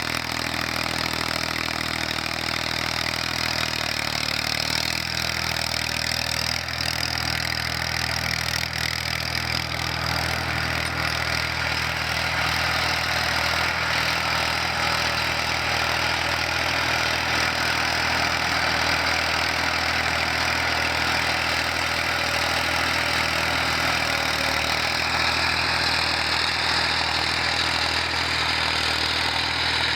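Tractor engine running steadily, its note shifting slightly a few seconds in.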